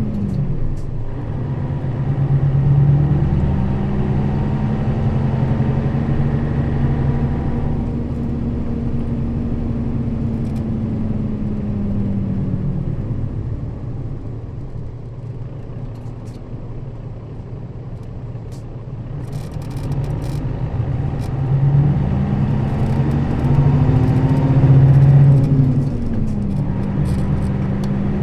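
Nissan Diesel KL-RA552RBN route bus's diesel engine, heard from on board while driving. It pulls with a rising pitch and holds steady, eases off and quietens mid-way, then pulls again, with a sudden drop in pitch near the end like a gear change.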